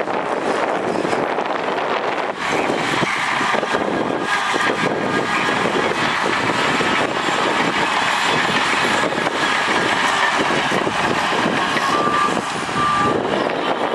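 Heavy earthmoving machinery working: diesel engines running steadily under load, with two short beeps near the end.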